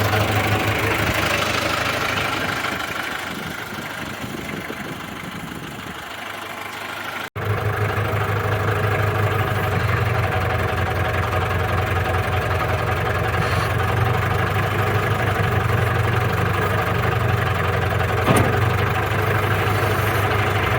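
New Holland 2120 tractor's diesel engine idling steadily. It grows fainter for a few seconds, drops out for an instant about seven seconds in, then carries on at full level.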